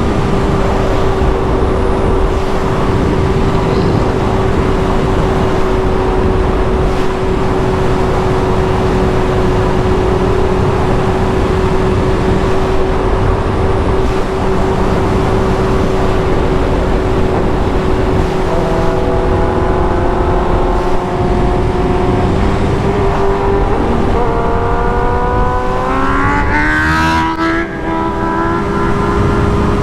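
Motorcycle engine running at a steady cruise, with heavy wind noise over it. Past the middle a second engine note joins, and near the end the revs climb sharply and then drop back.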